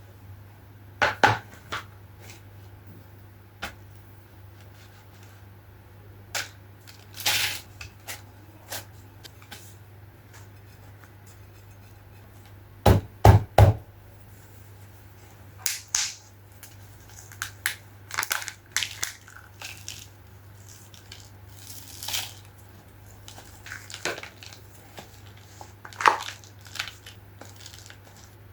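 Hands handling decor pieces and their packaging: scattered rustling and crinkling with light taps, and three louder knocks in quick succession about 13 seconds in, over a steady low hum.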